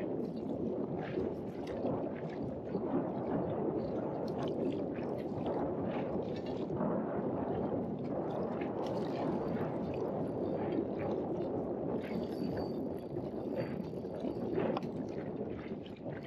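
Wind buffeting the microphone and choppy water lapping and gurgling against a small inflatable boat, with frequent small splashes and knocks.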